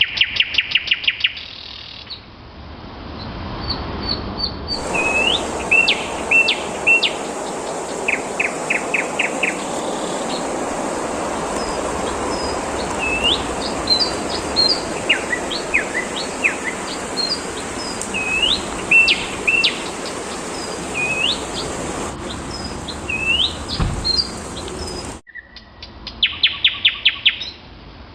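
Songbirds calling and singing: short rising whistled notes and quick trills of repeated chirps, with a steady background noise throughout.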